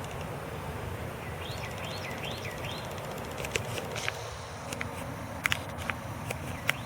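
Outdoor ambience with a steady low rumble. A bird calls four quick, arching notes about a second and a half in, and a scatter of sharp clicks follows in the second half.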